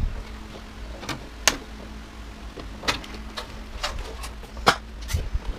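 Scattered sharp clicks and light knocks of tools and metal parts being handled while a washer/dryer is dismantled, about eight over a few seconds, with a faint steady hum underneath.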